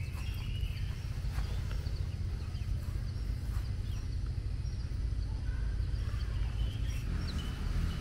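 Birds chirping: scattered short, high chirps. Underneath runs a steady low rumble, and it is the loudest thing.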